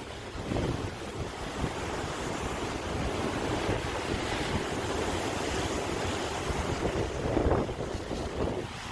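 Sea surf: waves breaking and washing in a continuous rush that swells and ebbs, with the loudest wave surging in a little before the end.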